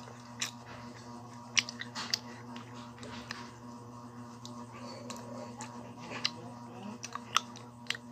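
Children eating candy close to the microphone: scattered small mouth clicks and smacks of sucking and chewing, over a faint steady hum.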